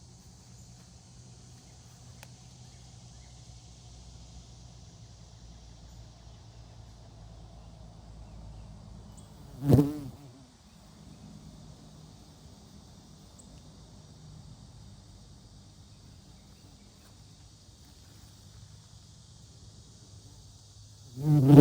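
Cicadas buzzing in a steady high chorus over a low steady hum. A loud knock cuts through about ten seconds in and another comes near the end.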